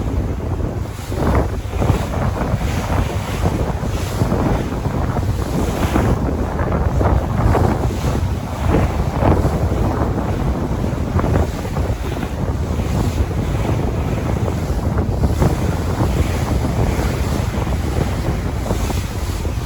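Sea waves washing continuously, with wind buffeting the microphone in a steady low rumble.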